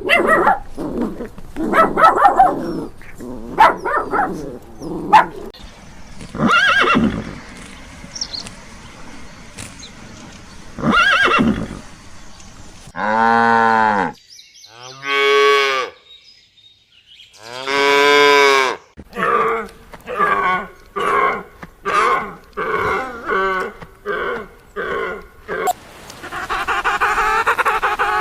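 A series of animal calls: varied short calls at first, three long drawn-out calls in the middle, then a quick run of shorter calls.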